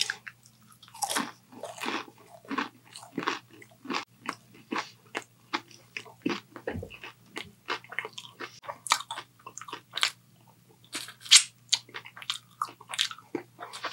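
Close-miked chewing of crispy fried food: a bite, then repeated crunches, about two or three a second with short pauses, over a faint low hum.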